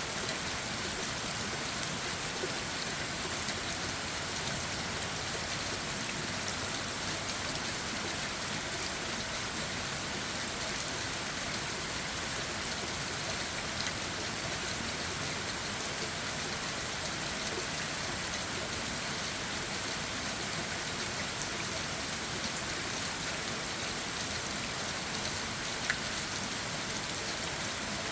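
Steady rain falling on forest leaves and ground, pattering evenly, with scattered sharper drop taps and one louder tap near the end.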